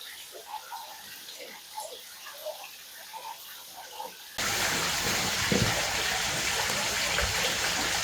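Water running steadily from a tap, starting abruptly about four seconds in after a quiet stretch with faint small clinks.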